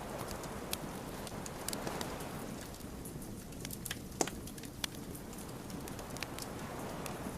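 Wood fire crackling: a steady low rush of burning logs with irregular sharp pops and snaps, the loudest about four seconds in.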